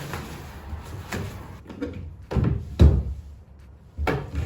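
Several separate knocks and thumps from handling parts and tools: about five in all, the loudest near three seconds in.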